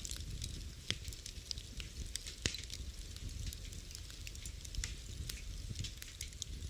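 Wood fire in a fireplace crackling, with irregular sharp pops over a low rumble of flames; two louder pops about one and two and a half seconds in.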